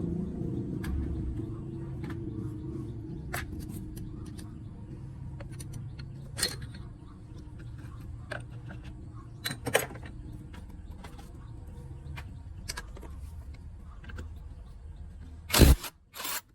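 Metal tools and motorbike parts clinking and clicking now and then over a low steady rumble that slowly fades. Two loud knocks come near the end.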